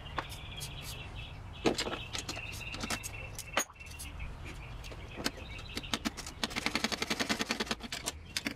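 Outdoor background with birds chirping over a steady low rumble, scattered sharp clicks, and a rapid run of clicking pulses near the end.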